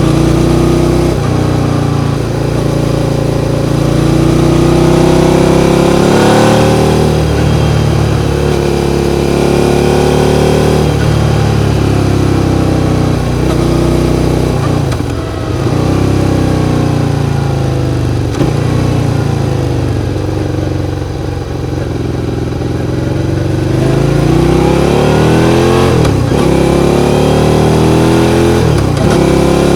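Suzuki SV650's 645 cc V-twin engine accelerating through the gears: the engine note climbs, drops sharply at each shift, then climbs again, over and over. It eases off for a few seconds past the middle before pulling up again.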